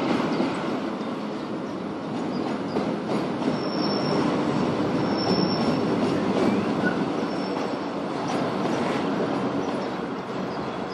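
Container wagons of an intermodal freight train rolling past, a steady rumble of steel wheels on the rails.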